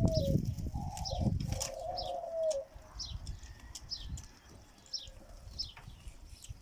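Domestic pigeons cooing twice in the first two and a half seconds over a low fluttering noise, while a small bird keeps giving short, high, falling chirps about twice a second.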